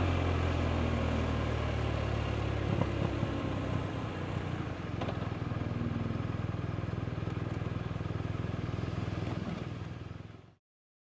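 BMW R 1250 RT's boxer twin engine running steadily at low revs, with a couple of light clicks a few seconds in; the sound fades out to silence near the end.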